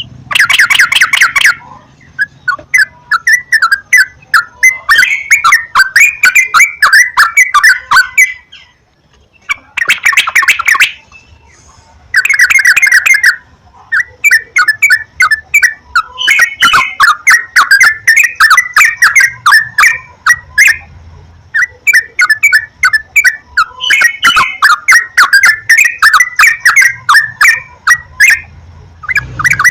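Yellow-vented bulbul (trucukan) song: loud, rapid bubbling and chattering phrases in quick runs of notes, repeated with short gaps between bursts.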